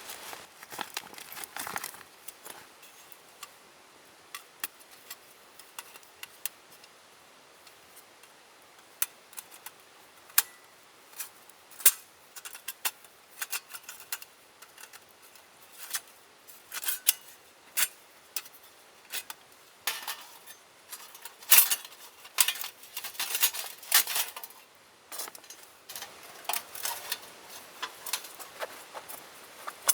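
Irregular light clinks and taps of metal camp cookware and utensils being handled, coming thicker in the second half.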